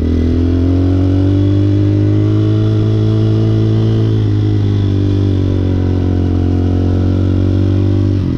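Hawk 250 motorcycle engine running at a steady speed under way, its pitch rising a little in the first second or so and then easing off gently.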